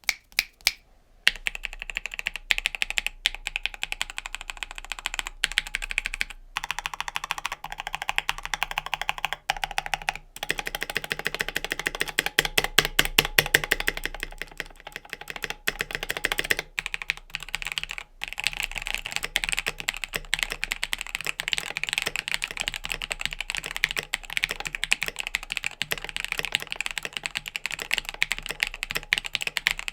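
Typing on a mechanical keyboard fitted with factory pre-lubed NK Silk Olivia linear switches: a steady, dense stream of keystrokes starting about a second in.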